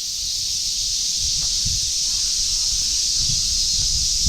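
A steady, high-pitched chorus of summer cicadas, with irregular low thuds from walking footsteps beneath it.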